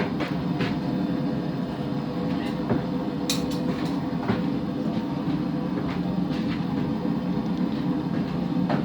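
Blacksmith's forge running with a steady low rumble, with a few light knocks of metal, one clearer about three seconds in.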